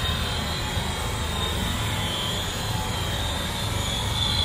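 SBB IC 2000 double-deck coaches rolling past on the rails: a steady low rumble with a high, thin wheel squeal over it.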